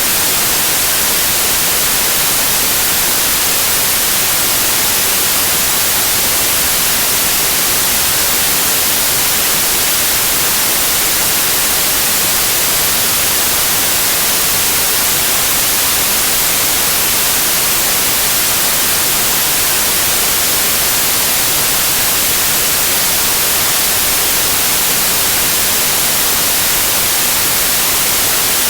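Continuous white noise like TV static: a loud, even hiss, brightest in the highs, with no change or events.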